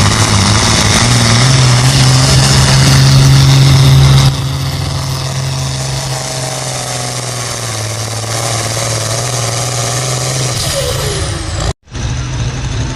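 Farm stock pulling tractor's diesel engine running hard and steady, loud. About four seconds in it drops sharply to a lower level and runs on, and there is a brief dropout near the end.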